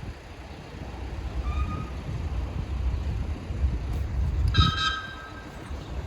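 A train running with a low rumble, and one brief high-pitched squeal about four and a half seconds in.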